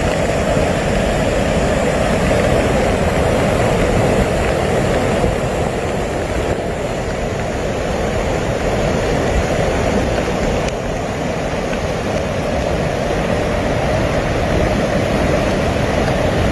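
Steady, unbroken rushing rumble of a storm-swollen torrent of floodwater, loud and without pauses.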